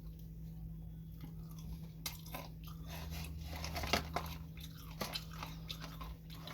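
A person chewing and biting food close to the microphone, with a run of sharp crunches in the middle, the loudest about four seconds in.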